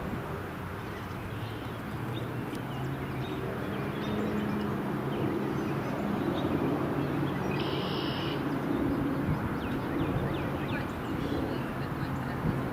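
Airplane engine noise: a steady hum under a wash of noise that grows a little louder about four seconds in. Small birds chirp now and then, and a short high tone sounds about eight seconds in.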